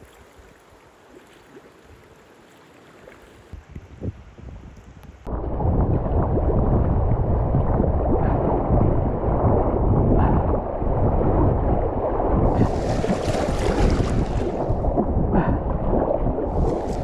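Quiet for about five seconds, then a sudden switch to loud, rumbling wind buffeting the microphone out on the water, with two spells of hissing water splashing, such as from kayak paddle strokes.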